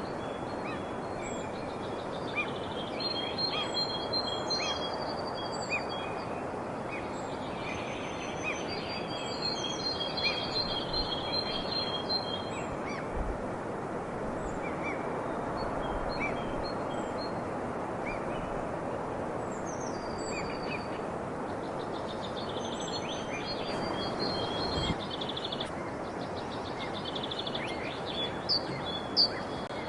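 Several songbirds calling, with repeated high trills in spells and scattered short chirps, over a steady background hiss.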